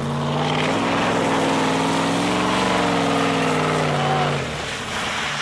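Pickup truck engine revving up and then easing off over about four seconds while the truck is driven through wet snow for donuts, with a rushing noise under it.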